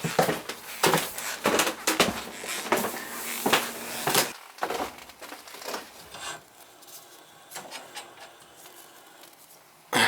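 Tools and shower-valve parts being handled: a quick run of knocks, clicks and scraping for about four seconds, then only faint, scattered ticks.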